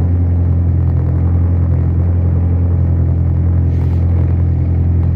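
Audi 1.9 TDI (1Z) four-cylinder turbodiesel with its VP distributor injection pump, idling steadily just after a cold start at about −15 °C. It runs at an even, unchanging pitch with no revving.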